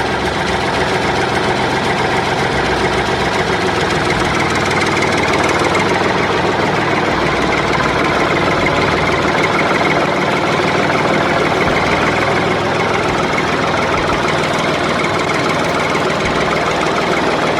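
Tractor engine running steadily, with a fast even pulsing.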